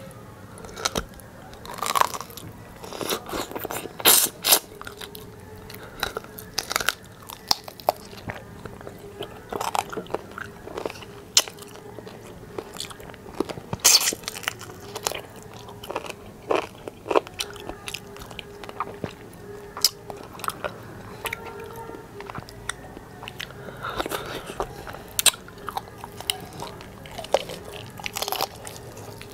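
Close-miked eating sounds of a person biting and chewing chicken feet and rice by hand: irregular wet mouth clicks and sharp crunchy bites.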